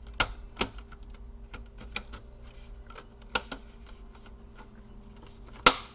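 Plastic cover of a Dell Latitude E4310 laptop being pressed into place, its clips snapping in as a scatter of sharp clicks, the loudest near the end.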